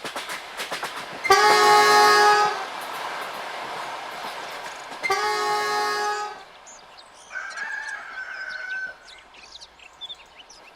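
Train horn sounding two loud blasts, each about a second long, over the rushing noise of a passing train with a few rail clicks. The train noise fades after the second blast, leaving birds chirping.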